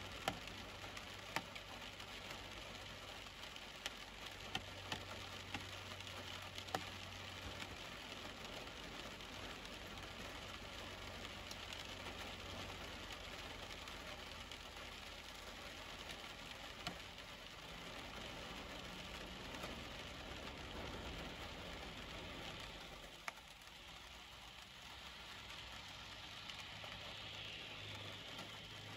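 Heavy rain on a vehicle: a steady hiss of rainfall with scattered sharp raindrop taps over a low steady hum. Near the end a passing vehicle adds tyre hiss on the wet road.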